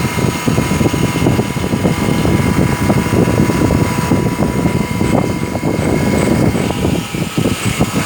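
CNC machine running: a dense, rapidly fluttering rumble with thin steady whines above it.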